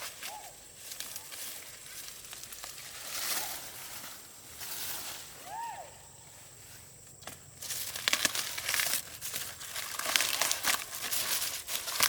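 Dry plant material rustling, crinkling and crackling as it is handled, growing louder and busier about two-thirds of the way through. There are a couple of short chirps in between.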